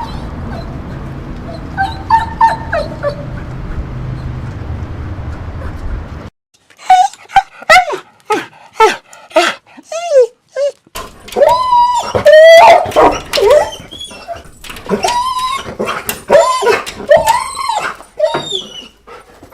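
Dogs whining and crying. At first a few faint whines sound over a steady background hum. After an abrupt cut comes a long run of short, high-pitched whimpers and yelps, each rising and falling in pitch.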